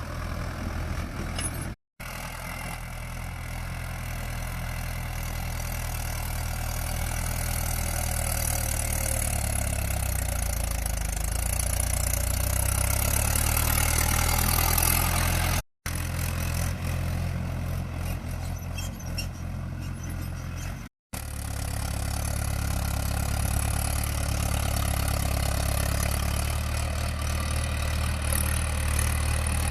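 Mahindra tractor diesel engine running steadily, growing louder over the first half. The sound drops out three times for an instant.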